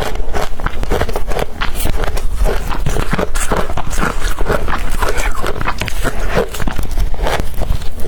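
Close-up crunching of blender-crushed ice being bitten and chewed: a dense, continuous run of crisp crackles.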